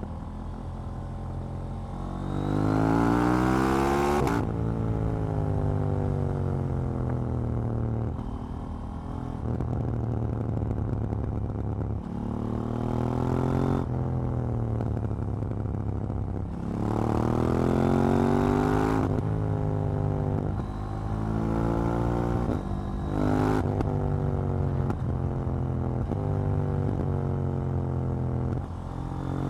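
KTM 790 Duke's parallel-twin engine pulling hard, rising in pitch several times. It falls back on the overrun in between, then climbs through a run of quick upshifts near the end.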